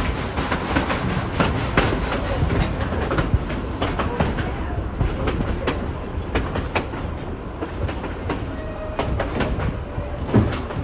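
Narrow-gauge train's passenger car rolling along the track, its wheels clacking irregularly over the rail joints above a steady low rumble, heard from the open side of the car. A louder knock comes near the end.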